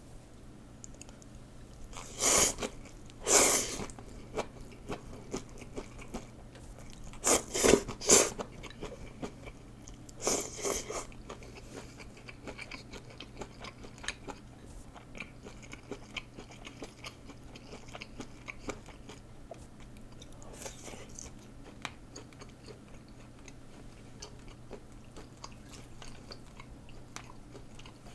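Close-miked eating: rice noodles and lettuce being chewed, with wet mouth clicks and crunching. There are a handful of loud noisy bursts in the first eleven seconds and one more about twenty seconds in, then steady soft chewing.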